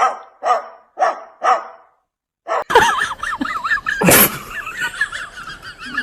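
Four bark-like animal calls about two a second, then after a brief silence a different clip of quick wavering, warbling high whistles with a short loud burst about four seconds in.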